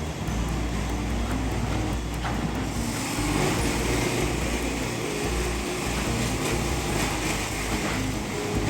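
Heavy diesel construction machinery running steadily, a deep engine rumble, on a building-demolition job.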